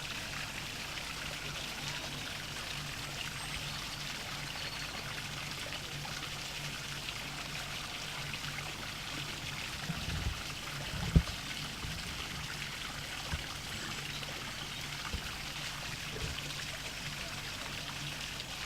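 Small waterfall, water splashing and trickling steadily, with a faint low hum underneath. A few short low thumps come about halfway through, one clearly louder than the rest.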